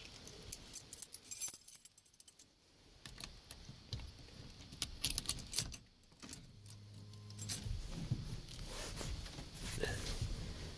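Keys jangling and clicking on a key ring as the ignition key of a 1991 Ford F-150 is handled. A brief low steady hum comes about two-thirds of the way in, and a low rumble builds near the end.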